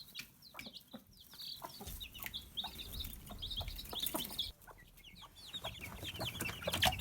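Chicks peeping in quick, short, high cheeps, with a broody bantam hen clucking low, the clucks building toward the end.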